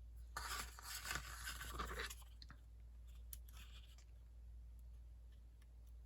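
Paper being handled and rustled on a tabletop, a faint crackly rustle for about two seconds, a shorter one a little later, and a few light clicks.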